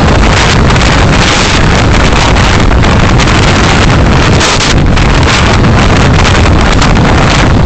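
Loud wind buffeting a dashcam microphone while the vehicle drives, with road and engine noise under it; dense, gusty noise with no break.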